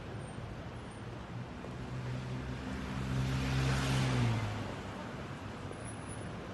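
A motor vehicle passing close by, its engine hum and tyre noise swelling to a peak about four seconds in, then dropping in pitch and fading, over a steady background of city traffic.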